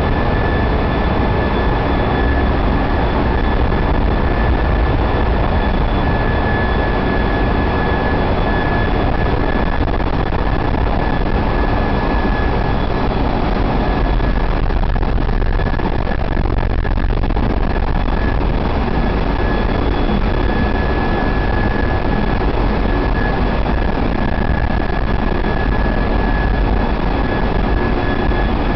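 Running machinery in a ship's engine room: a loud, steady din of diesel engines with a constant high whine over a deep rumble.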